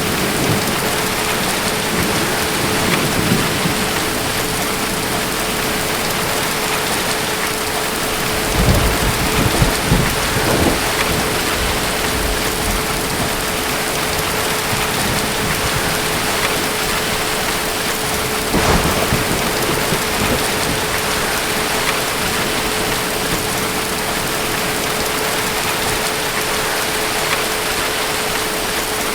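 Steady heavy rain falling, with deep rolls of thunder swelling about nine seconds in and again briefly around nineteen seconds.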